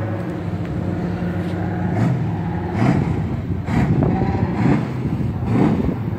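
Ford truck engine running steadily, then revving up and down again and again from about two seconds in, as the truck is worked through mud.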